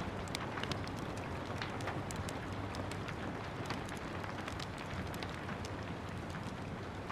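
Steady rain mixed with a wood fire crackling: an even hiss under many sharp, irregular pops and clicks.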